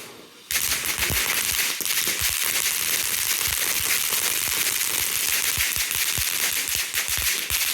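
Consumer firework (a ground fountain-type firework) going off about half a second in with a steady loud hiss of burning sparks and rapid, irregular crackling pops.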